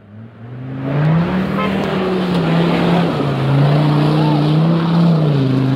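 Off-road 4x4's engine revving hard under full throttle, building over the first second and then holding high with its pitch rising and falling twice as the load changes.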